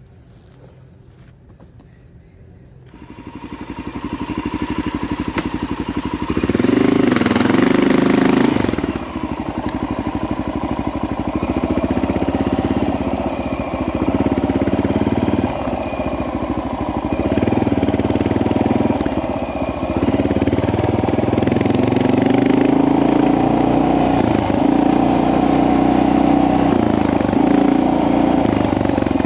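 Honda XR650L's single-cylinder four-stroke engine getting under way, rising in level from about three seconds in to a hard burst of revs around seven seconds in, then running on under changing throttle as the bike is ridden.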